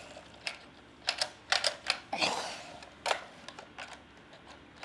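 Hard toy vehicles being handled: a quick, irregular run of sharp clicks and clacks as the toys knock together or are set down, with a brief scrape about two seconds in.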